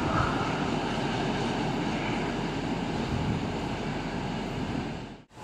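Freight train of open wagons rolling along the rails, a steady rumble and rattle of wheels that eases slightly as the train draws away. It cuts off abruptly just before the end.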